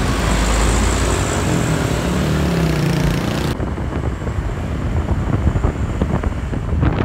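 Truck engine running with road noise as it drives by. About three and a half seconds in, the sound changes abruptly to a rough, uneven rumble of wind buffeting the microphone.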